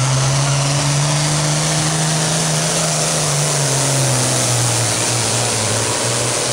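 Pulling tractor's engine running flat out under heavy load during a pull, with a dense high-pitched roar. Its pitch climbs slightly, then sags a little later on as the load builds.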